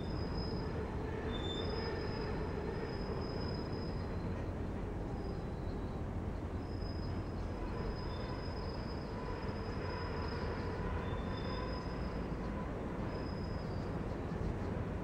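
Freight cars rolling past with a steady rumble, their wheel flanges squealing in thin high tones that come and go.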